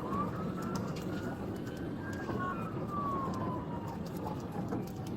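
Police car siren wailing through one slow rise and fall, over the steady road and engine noise of a police car in pursuit.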